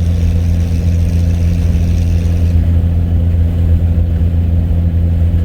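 1995 Ford F-150's 4.9-litre inline-six running through 2.5-inch straight pipes with no muffler: a loud, steady, low exhaust drone at an even engine speed, towing an empty trailer. Heard from inside the cab with the window down.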